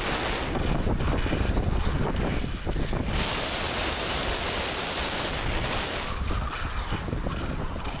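Strong wind buffeting the microphone during a blizzard: a low, gusting rumble with a rushing hiss that swells and fades every few seconds.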